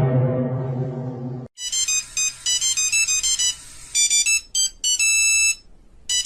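A held low tone fades out over the first second and a half. Then a fast, high, plinking ringtone-style melody plays in short runs, breaking off briefly near the end.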